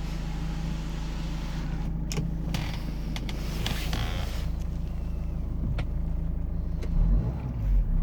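GM Daewoo Winstorm SUV engine idling steadily, with a few sharp clicks, a brief hissing burst midway and a low thump near the end.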